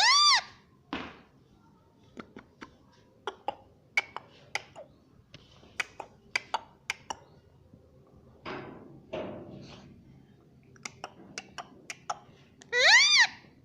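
Pet parrot giving a loud, short squawk that rises and falls in pitch, once at the start and again near the end, with scattered light clicks and taps in between.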